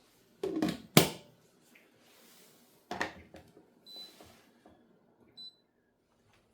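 A few sharp knocks and clatters of household objects being handled and set down, the loudest about a second in. Two short high pings follow.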